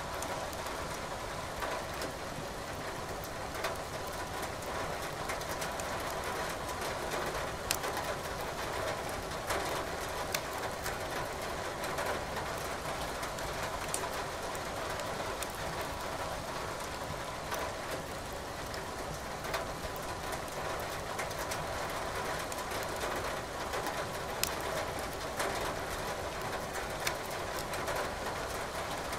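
Wood fire crackling in a fireplace, with sharp pops every few seconds over a steady hiss of rain.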